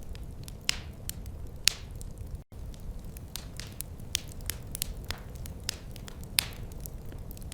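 Wood fire crackling: sharp pops several times a second over a steady low rumble of the flames. The sound drops out for an instant about two and a half seconds in.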